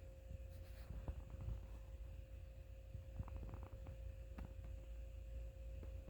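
Quiet room tone: a steady, faint high hum over a low rumble, with a few light clicks and taps about a second in and again around the middle.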